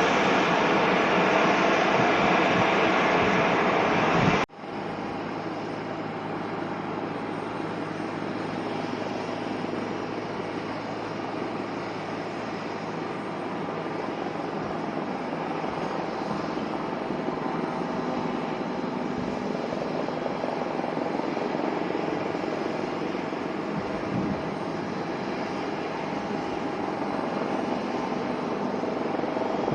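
Airliner engine noise, a loud steady rush that cuts off abruptly about four and a half seconds in. It gives way to a quieter steady engine sound with a low hum that slowly grows louder.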